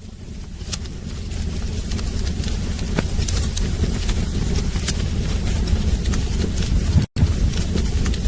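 Wood fire burning in a fireplace: crackling and popping with scattered sharp snaps over a steady low rumble, swelling over the first couple of seconds. The sound drops out for an instant about seven seconds in.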